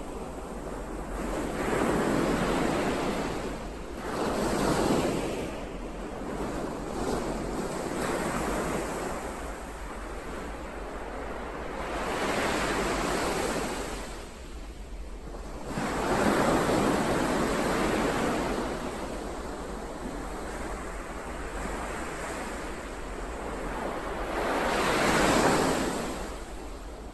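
Ocean waves breaking and washing in, in slow swells that rise and fall about five times, the last near the end the loudest.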